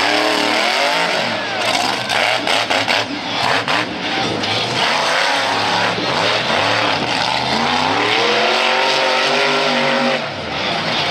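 Monster truck engine revving hard, its pitch rising and falling several times, with a long climbing rev from about six to ten seconds in.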